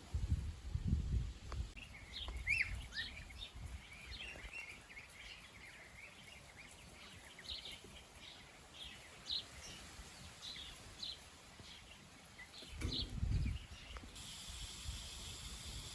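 Small birds chirping outdoors, a scatter of short high calls through most of the stretch, with low rumbles of wind on the microphone at the start and again near the end. A steady high hiss comes in near the end.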